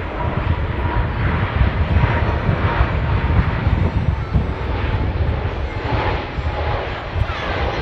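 Jet airliner engines running: a loud, steady noise heaviest in the low end, with a thin steady whine above it.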